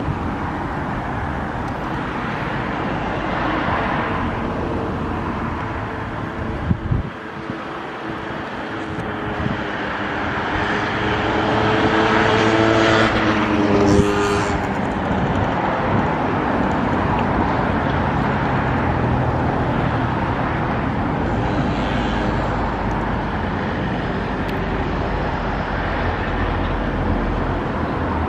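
Steady city traffic noise, with one motor vehicle passing close about halfway through, its engine tone rising as it approaches and dropping as it goes away.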